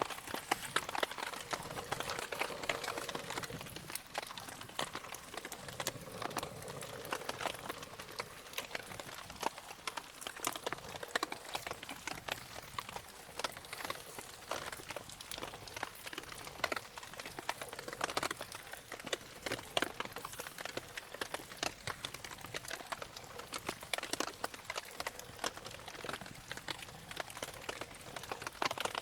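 Wood campfire crackling: a dense, irregular run of sharp pops and clicks over a steady hiss.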